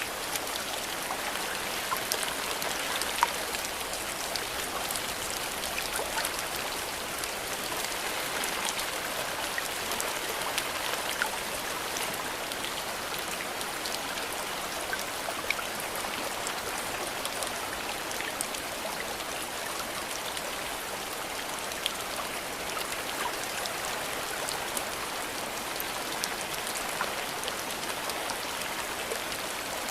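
Steady rain falling, with many small drops ticking and pattering on leaves and surfaces. Occasional louder single drops stand out.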